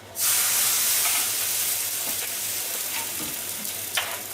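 Food sizzling in a hot frying pan. The sizzle starts suddenly and loudly, then slowly dies down.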